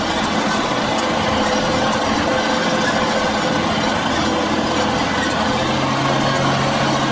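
Yanmar B22 mini excavator's diesel engine running steadily while it works, sped up to double speed. A steady low hum comes in about two-thirds of the way through.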